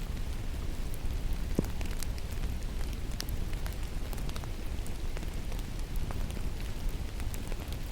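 Steady rain falling in a forest, with many scattered sharp ticks of drops striking close by.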